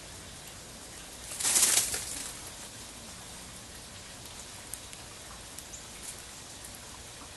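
A bird's wings flapping in a short rush about a second and a half in, over a steady hiss like light rain, with a few faint ticks later.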